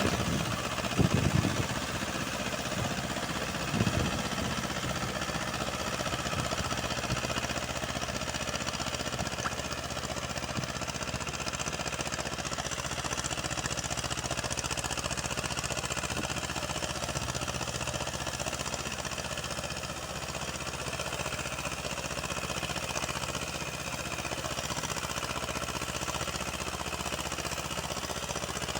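Uralets mini-tractor engine running steadily, with a few louder knocks in the first few seconds.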